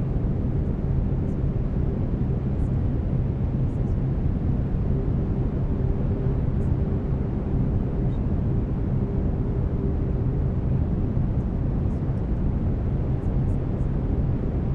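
Steady brown noise, a deep even hiss strongest in the low end, with faint steady low tones from binaural beats underneath.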